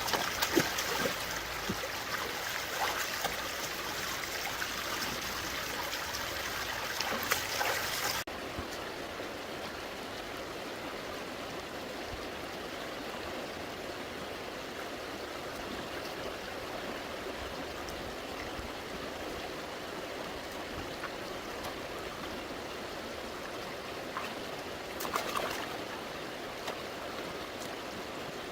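Stream water running steadily, with a busier stretch of knocks and splashing in the first eight seconds that stops abruptly. A short louder splash comes near the end.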